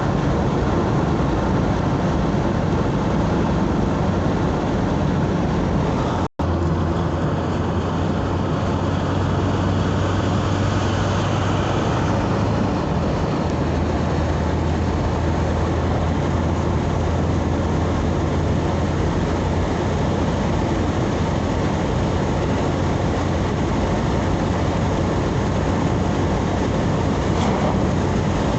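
Steady engine and tyre noise of a vehicle driving along the road, with a low hum throughout. The sound cuts out for an instant about six seconds in.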